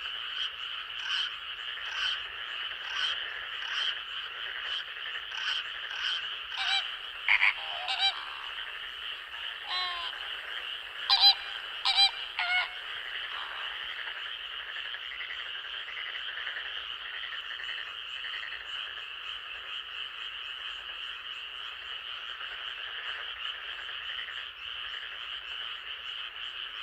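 Night chorus of frogs in the forest: a steady high-pitched drone, with short calls repeating about once a second over the first half and a few louder calls near the middle, then only the steady drone.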